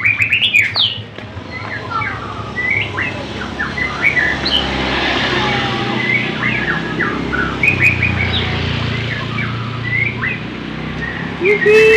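White-rumped shama (murai batu, Medan type) singing a fast, varied run of short whistled notes, over a steady low hum.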